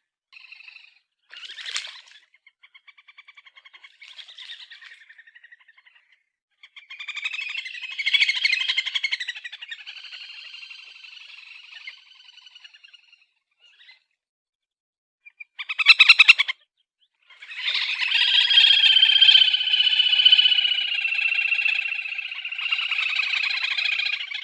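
Australasian grebe (titihan telaga) calling in rapid rattling trills: a few short bouts at first, a longer trill in the middle, a short loud burst, then a long loud trill through the last quarter.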